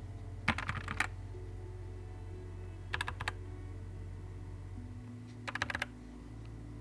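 Keys being typed on a Nuphy Air 75 V2 low-profile mechanical keyboard: three quick runs of a few keystrokes each, about half a second in, around three seconds in, and near the end, over a steady low hum.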